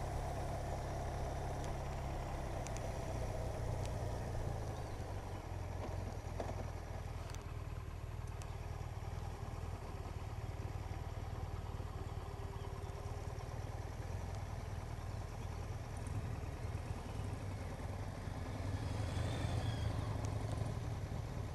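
Motorcycle engine running steadily as the bike rides along, a low even hum with road noise.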